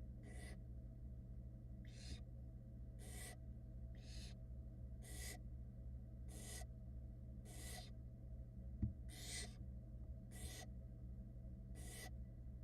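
Barn owl chicks giving their rasping, hissing begging calls, about one hiss a second, over a steady low hum. A single brief knock comes about two-thirds of the way through.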